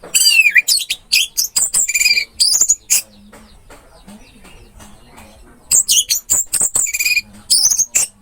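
Orange-headed thrush (anis merah) singing: two fast phrases of varied whistles and sweeping notes, the first from the start for about three seconds, the second beginning a little before the six-second mark and lasting about two and a half seconds.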